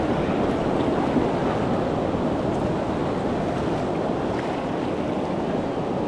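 Steady rush of river water through rapids, an even wash of noise with no break.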